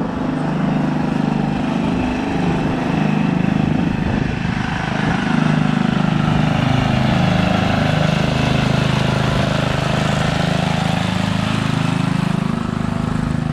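A car engine running at idle, steady, with its pitch wavering slightly.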